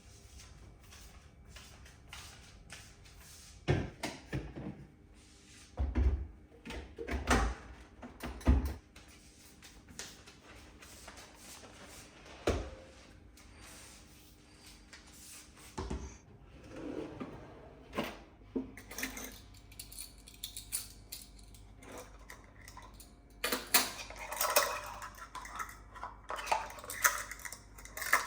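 Household objects being handled and set down: irregular knocks and clinks, with a few louder thuds about four to nine seconds in and busier clattering near the end.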